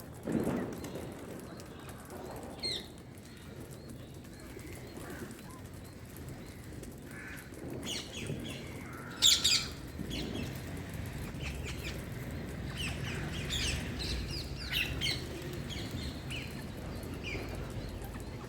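Indian green parrot giving scattered short chirps and squawks, the loudest about nine seconds in. A low thump sounds just after the start.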